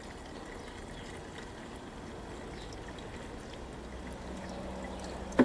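Fuel being poured into a lawn mower's fuel tank, a steady trickling stream of liquid. A brief sharp sound with a gliding pitch cuts in near the end.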